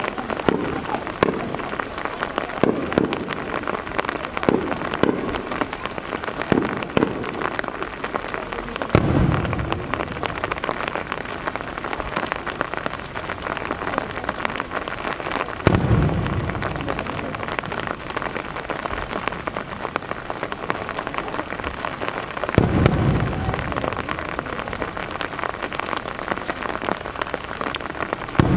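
Steady rain falling. A quick run of sharp firework pops fills the first several seconds, and three deep booms of aerial shells bursting, each with a rolling tail, come about nine, sixteen and twenty-three seconds in.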